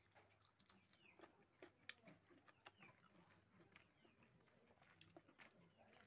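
Faint eating sounds: chewing and wet mouth clicks and smacks, scattered irregularly, from someone eating pork hock curry and rice by hand.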